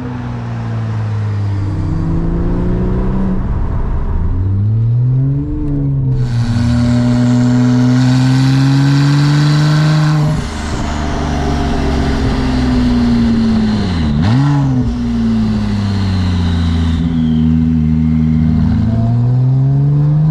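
Porsche 996 911 Turbo's twin-turbo flat-six running loud through an aftermarket titanium X-pipe exhaust, accelerating through the gears. The engine pitch climbs and drops repeatedly with the shifts, with a quick dip and rebound about fourteen seconds in.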